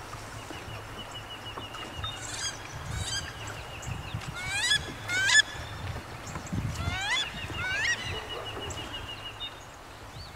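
Wild birds calling: four sharply rising, honk-like calls in two pairs, the loudest about five seconds in, with a rapid string of short high notes before and after them. A low rumble runs underneath.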